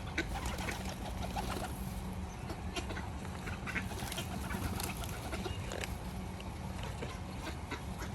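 Park waterfowl and pigeons at a feeding spot giving short, scattered calls over a steady low background hum.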